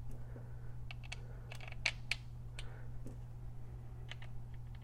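Scattered light metallic clicks and taps as bolts are fitted by hand into a Harley twin cam's cam plate, with a steady low hum underneath.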